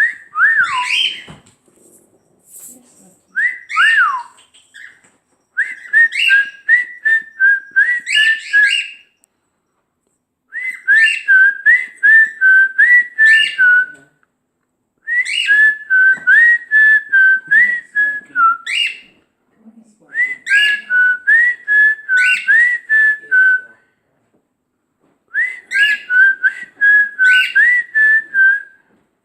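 Pet bird whistling a tune: two short whistles, then the same phrase of quick rising and falling notes repeated five times, each a few seconds long with short pauses between.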